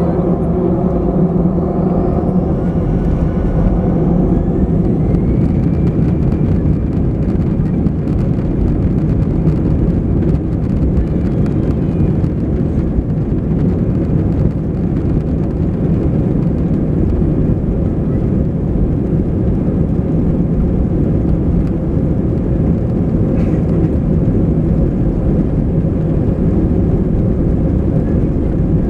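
Airbus A320 engines at takeoff thrust heard from inside the passenger cabin: a loud, steady rumble and rush of engine and air noise, with a faint whine rising in pitch during the first few seconds.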